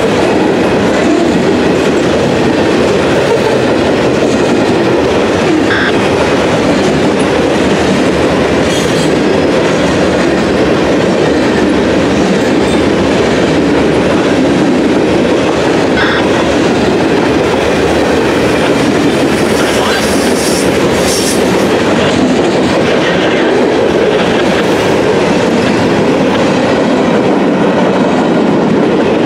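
Cars of a CSX mixed freight train (covered hoppers, boxcars, tank cars) rolling past: steel wheels on the rails make a steady, loud rumble.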